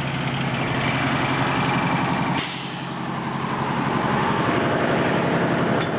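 Detroit Diesel 8V71 two-stroke V8 running at raised revs, getting louder, dropping back suddenly about two and a half seconds in, then building again, as the driver tries to drive the truck out of a mud rut.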